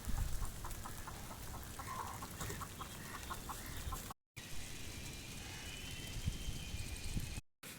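A chicken clucking in a quick run of short calls, about five a second, for roughly three seconds, over a steady low rumble. After a cut about four seconds in, a faint, thin, high call is heard.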